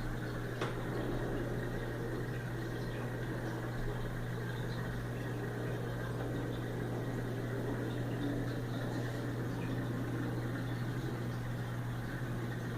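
Aquarium equipment running: a steady low hum with water bubbling and trickling over it, and one small click about half a second in.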